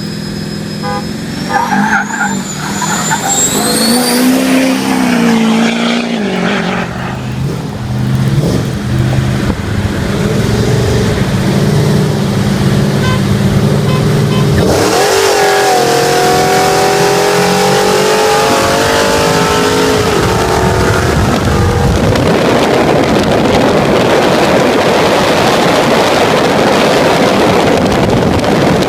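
Race engines of a twin-turbo diesel pickup and a supercharged Pontiac GTO accelerating flat out. A high whine rises in pitch in the first few seconds. About halfway through, the engine note climbs through the revs, then gives way to a steady loud rush of wind and road noise at speed.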